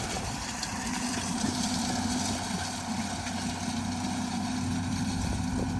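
Farm tractor engine running steadily at a constant speed, a low even hum with no change in pitch.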